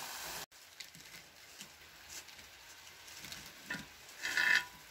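Green banana slices deep-frying in a small pot of oil, a steady sizzle that cuts off about half a second in. After it come faint scattered clicks, then near the end a louder clatter as the crisp fried slices are tipped out of a metal strainer onto paper towels.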